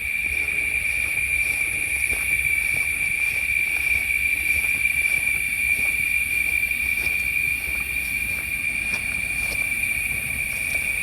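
Steady chorus of insects buzzing at one constant high pitch, with a low rumble underneath.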